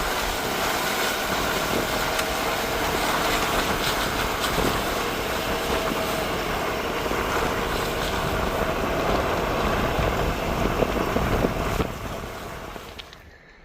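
Pickup truck driving up a steep mountain road: steady engine and road noise that fades out near the end.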